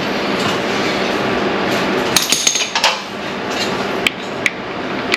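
Hand tools and metal engine parts clinking and knocking, with a cluster of sharp clinks about halfway through and two more near the end, over a steady noise.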